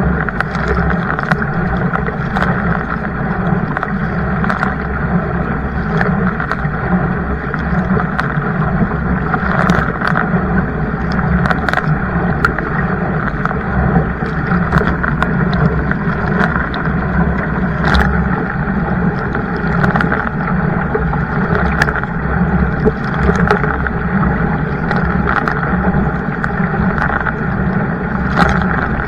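Water rushing and splashing around a moving kayak, steady throughout with many short splashes, and wind on the microphone.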